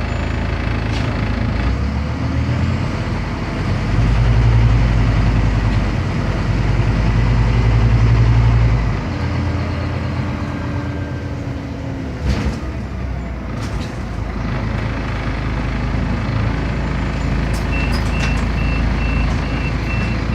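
Interior of a Scania CN270UB city bus running, its nine-litre five-cylinder diesel pulling harder for a few seconds and then easing off. A short burst of air hiss comes about midway, and a steady pulsed electronic beeping starts near the end.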